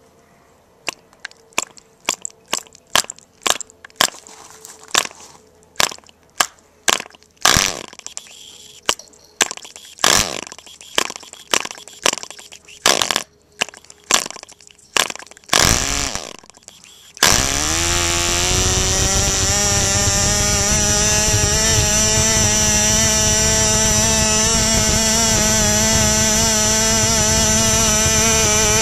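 A 1961 OS Max 6 1cc two-stroke glow engine being flicked over: a string of sharp single pops and a few brief bursts of firing. About 17 seconds in it catches, rises quickly in pitch and runs steadily at a high-pitched, buzzing speed, turning a 6x4 propeller on straight fuel without being leaned out for flat-out running.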